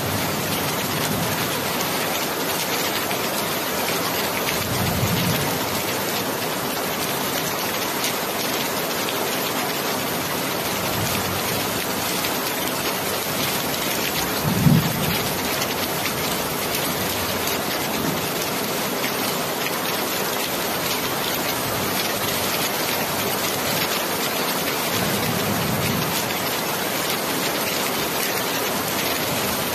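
Steady heavy rainfall with a few short low thumps, the loudest about halfway through.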